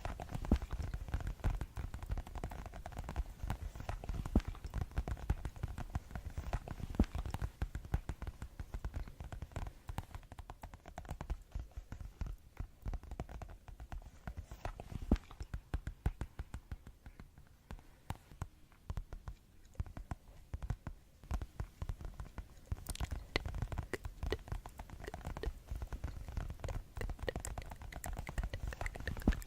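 Fast ASMR tapping: many quick, irregular taps in close succession, with a softer, sparser stretch from about twelve seconds in until past twenty seconds.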